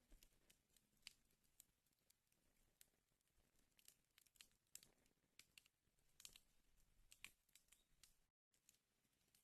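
Wood fire in a fireplace crackling faintly, with irregular sharp pops and snaps over a soft hiss. The sound cuts out completely for a moment near the end.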